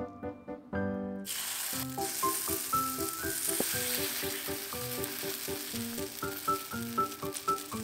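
Enoki mushroom pancakes sizzling as they fry in oil in a pan, the sizzle starting suddenly about a second in, under background music.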